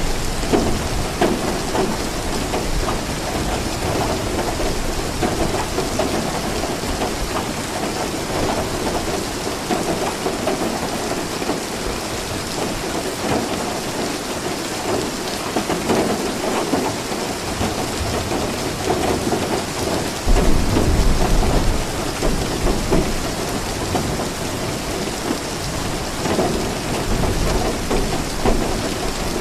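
Steady heavy rain falling, with a low rumble of thunder that comes in suddenly about two-thirds of the way through and lasts a few seconds.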